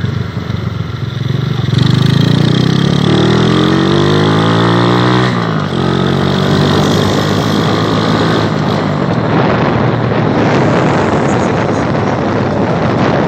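Small motorcycle engine accelerating. Its pitch rises for a few seconds, then drops at a gear change about five seconds in, and it pulls on again. Wind buffets the microphone more and more as speed builds.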